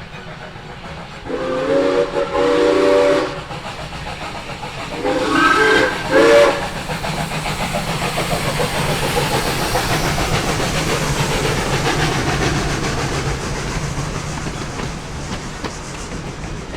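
Steam locomotive whistle, sounded twice as a chord of steady tones, the second blast in two short parts. Then a steady rush of steam and train noise that swells and slowly fades.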